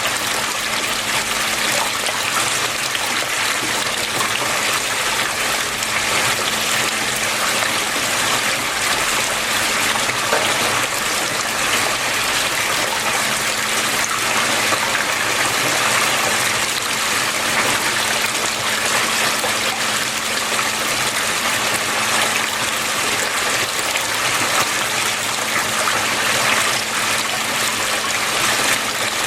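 Water flowing and splashing steadily, an even rushing wash with a faint steady low hum underneath.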